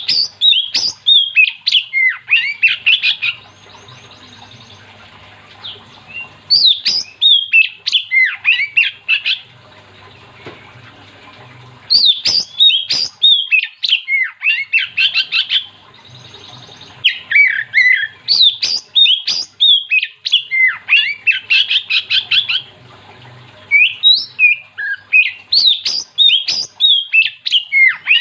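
Oriental magpie-robin (kacer) in full song: loud bouts of rapid, varied whistles and harsh chattering notes, five bouts of a few seconds each with short pauses between.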